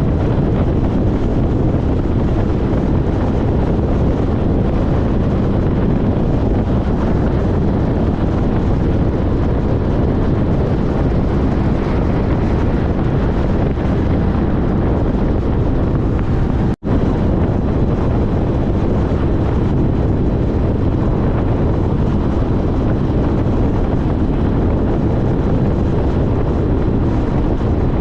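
Steady wind rush on the microphone over motorcycle road noise while riding at speed, with a sudden momentary dropout about seventeen seconds in.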